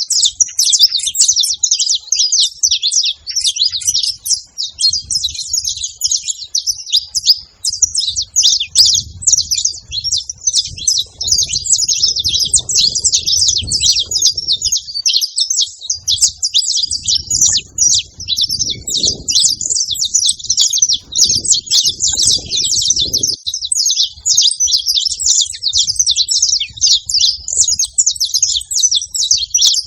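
Saffron finches chirping in a dense, unbroken chatter of short, high calls.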